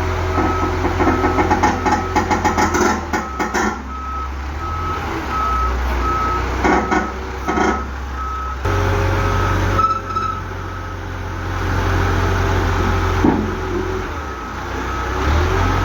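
Garbage truck's engine running with its reversing alarm beeping at an even pace, pausing about ten seconds in and resuming near the end. Bursts of clanking and knocking come in the first few seconds and again briefly midway.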